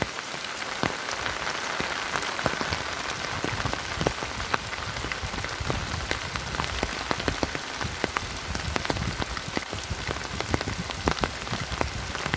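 Steady rain falling, with many sharp, separate drop hits ticking close by over the even hiss of the downpour.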